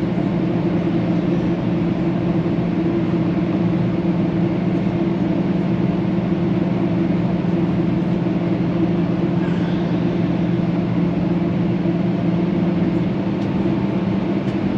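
Steady cabin drone inside a Boeing 737-800 in flight: engine and rushing-air noise with a low, even hum.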